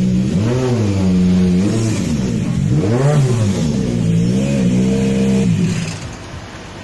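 Rally car engine at high revs, its pitch dropping and climbing again several times as the driver shifts gears and brakes through a section of stage, then falling away near the end.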